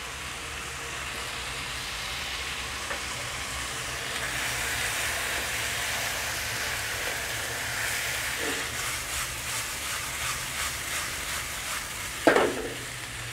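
Chicken sausage slices and onions sizzling in a nonstick frying pan over a gas flame with tomato and HP sauce just poured in, the sizzle growing louder as a spatula stirs and scrapes through the mix. A single sharp knock rings out near the end.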